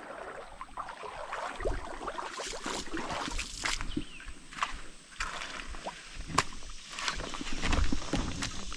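Water sloshing and splashing in a shallow creek, with irregular light clicks and knocks.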